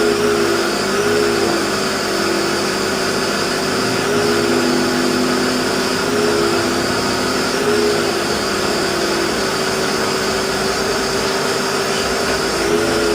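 2004 Mercedes-Benz SL500's V8 engine running steadily with a constant hum.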